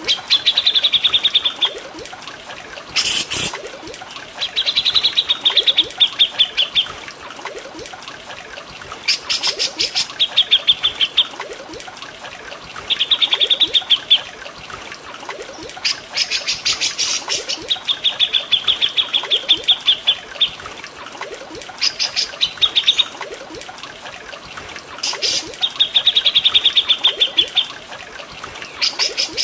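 Songbird song for bird training: fast trilled phrases, each a second or two long, repeated every few seconds, with short harsh high-pitched notes between some phrases. Underneath is a steady trickle of running water.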